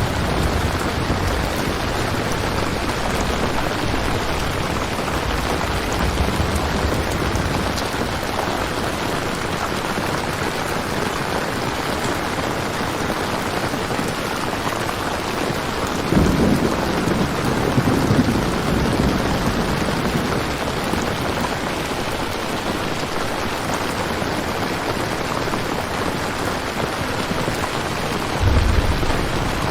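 Steady heavy rain, a constant hiss, with low rumbles of thunder rolling in about halfway through and again near the end.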